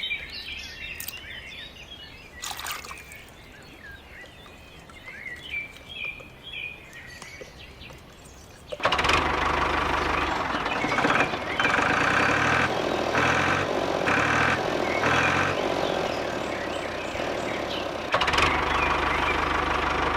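Birds chirping over a quiet outdoor background, then about nine seconds in a small engine suddenly starts up loud and keeps running.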